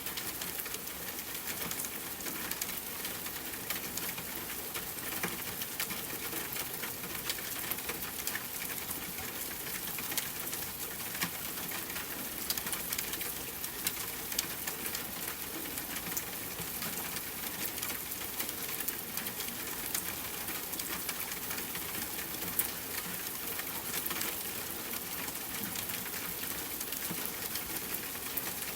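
Steady rain pattering on a tent, mixed with a campfire's scattered sharp crackles.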